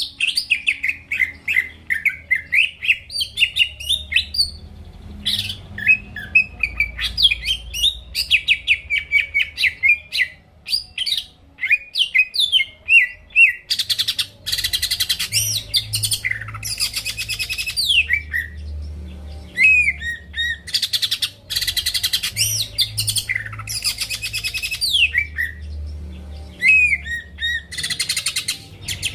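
Cucak ijo (green leafbird) singing vigorously: a fast, varied run of whistled and chirped notes, turning about halfway through into harsh, buzzy rattling phrases alternating with sharp whistles. A faint low hum runs underneath.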